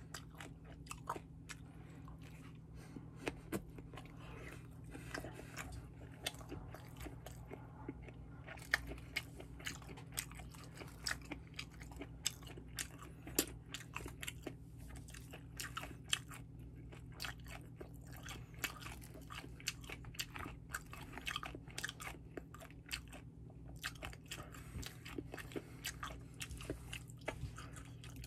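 A person chewing sushi close to the microphone: a steady run of many short mouth clicks and smacks, over a steady low hum.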